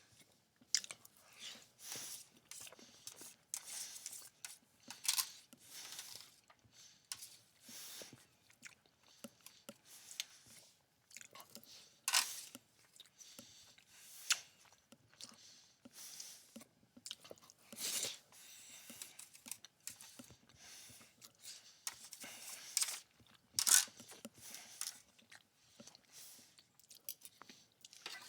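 A person chewing a mouthful of chicken alfredo penne pasta close to the microphone, with irregular wet mouth clicks and smacks.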